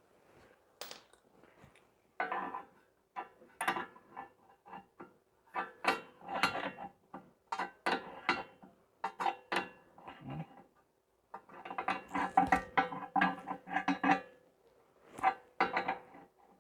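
Metal hand tools clinking and clicking in uneven clusters of short strikes, with ratchet-like clicking, as a suspension nut is worked. There is a brief pause about two-thirds of the way in.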